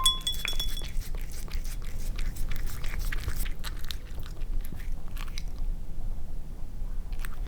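A cat chewing and crunching food: a run of quick crunchy clicks, dense for the first few seconds and then more spaced out.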